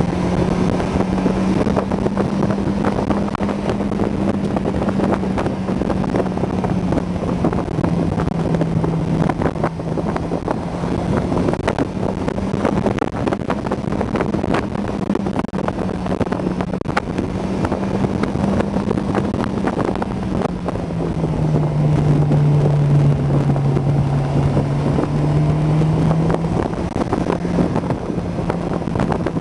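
Honda S2000's four-cylinder engine pulling steadily at fairly high revs, heard from the open cabin with wind buffeting the microphone. Its note drops in pitch a couple of times and is loudest past the middle.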